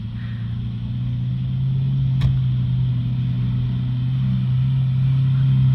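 Sports car engine idling, a steady low drone that grows slightly louder over the first couple of seconds, with a single sharp click about two seconds in.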